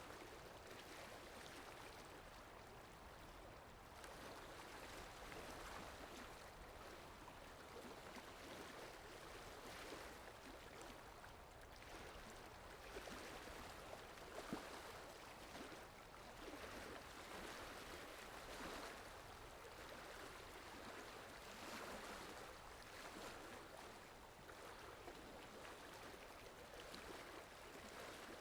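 Faint, steady water sound effect: a continuous rush of flowing water that swells and eases gently.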